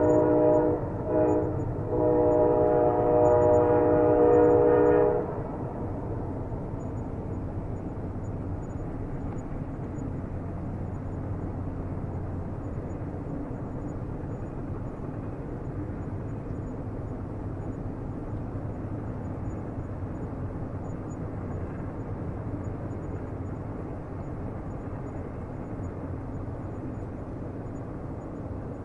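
Train horn sounding a steady chord, broken twice for a moment about a second in, then cutting off about five seconds in. After it, the steady low rumble of the train rolling on.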